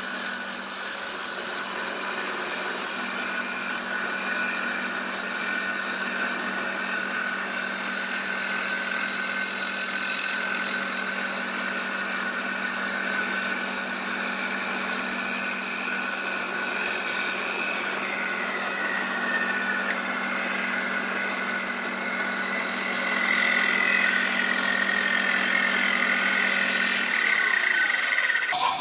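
Electric power tool motor running steadily under load, cutting out a friction disc, with a constant hum and hiss. It is switched off near the end and winds down.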